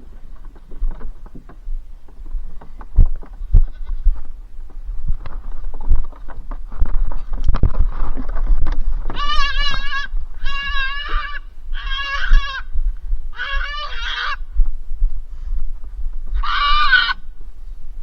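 Goat bleating five times, each a short wavering cry. The first four come close together about halfway through and the last comes near the end. Before them, several seconds of rustling and knocking.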